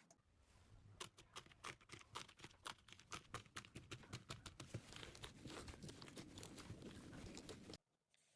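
Slime being squeezed and pressed by hand, making a quiet, dense run of small crackles and pops that cuts off abruptly near the end.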